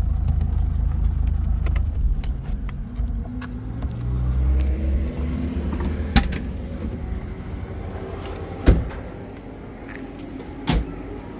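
A motor vehicle's engine running, its pitch rising and falling a few seconds in and then fading away. Three sharp knocks cut through it: one about six seconds in, the loudest near nine seconds and one near the end.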